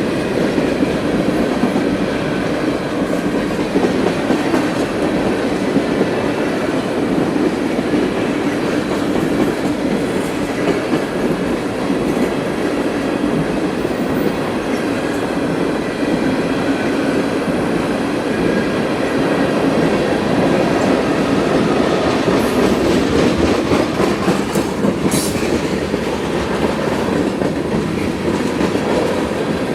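CSX freight train rolling past, its car wheels clicking over rail joints in a steady rumble, with a brief high screech about 25 seconds in.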